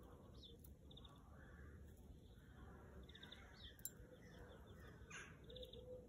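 Faint birdsong from small birds: scattered short chirps, quick falling notes and brief trills.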